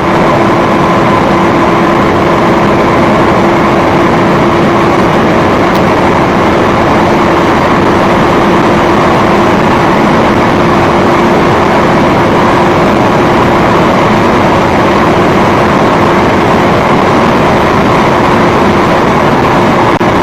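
Audi S8 plus running at a steady high speed: loud, even road and wind noise with a constant engine drone that neither rises nor falls.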